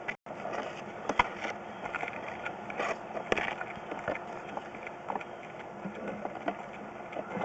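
Plumbing inspection camera's push cable being handled, giving irregular light clicks and rattles over a steady hiss.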